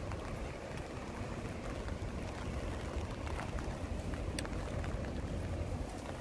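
Steady outdoor ambience of light rain on wet paving, under a low rumble of wind on the microphone, with a few faint ticks scattered through it.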